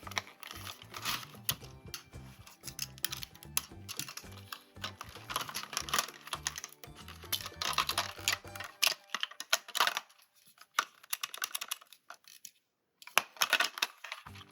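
Quick, irregular clicks and taps of plastic toy parts and packaging being handled, over background music for the first nine seconds or so; a brief pause near the end before the clicking starts again.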